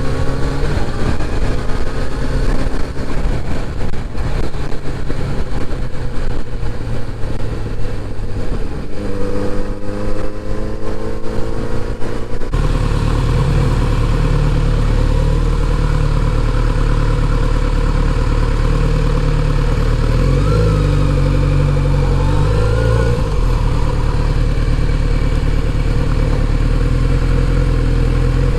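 Kawasaki Z900RS inline-four engine while riding: wind rush with the engine pitch climbing through the gears. About halfway through, the sound changes suddenly to a steady, even engine hum.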